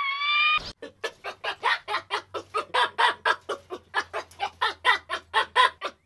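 A high, drawn-out call cuts off about half a second in. Then a domestic hen clucks in a quick, even run of short clucks, about five a second, over a faint low hum.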